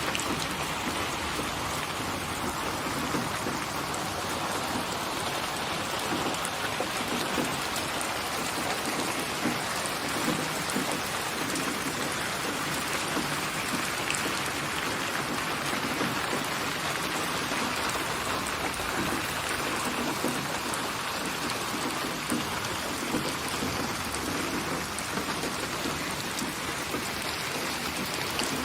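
Steady rain falling: a continuous, even hiss of rain on surfaces.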